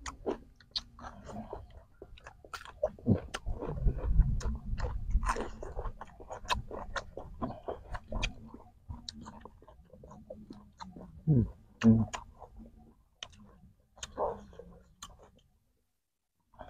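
Close-miked chewing and biting of fresh lettuce, cucumber and raw beef: crisp crunches and many short, sharp wet mouth clicks, irregular throughout. A low rumble swells around four to five seconds in.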